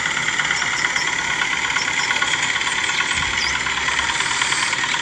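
Small motor of a DIY miniature machine running steadily, a continuous high buzzing whir with a fast, fine pulse.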